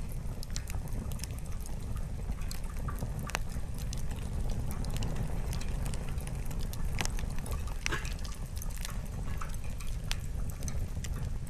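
Wood fire crackling, with irregular sharp pops of burning firewood over a steady low rumble; a few louder pops stand out about three, seven and eight seconds in.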